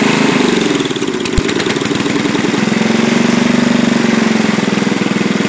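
Racing lawn tractor's Briggs & Stratton engine running on a heavy dose of Sea Foam. Its speed sags and a sharp click comes about a second and a half in, then it picks back up and runs steady.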